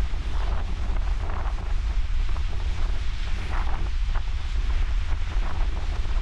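Strong wind buffeting the microphone with a steady low rumble, over ocean surf washing against the shore.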